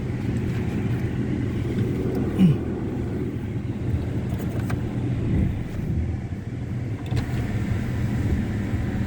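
Pickup truck running, heard from inside the cab as a steady low rumble. A brief squeak about two and a half seconds in.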